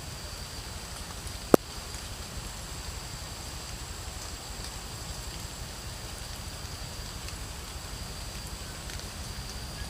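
Steady rain hiss in the forest, with one sharp, loud crack about a second and a half in, like a pop from the campfire. Two faint, steady high-pitched tones run underneath.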